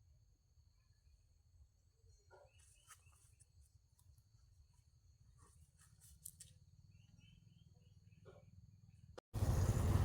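Faint outdoor ambience: steady insect buzzing with a few faint bird chirps and short distant calls. About nine seconds in, it cuts abruptly to a loud, steady motor noise.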